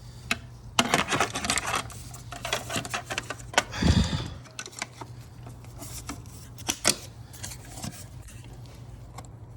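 Hands working hard plastic and metal parts under a car's hood, giving a quick run of clicks and rattles, scattered knocks, and a rubbing scrape about four seconds in, over a steady low hum.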